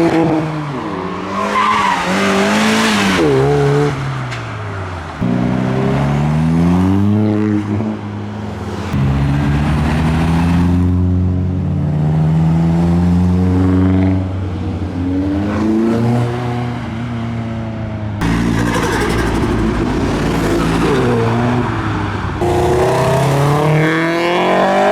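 Modified cars accelerating away one after another, their engines revving and climbing in pitch, dropping at gear changes and climbing again. The passes follow each other in several separate bursts.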